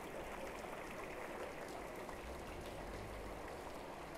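Water from a man-made waterfall spilling steadily off a gazebo roof and splashing down into a pool, a constant rain-like patter.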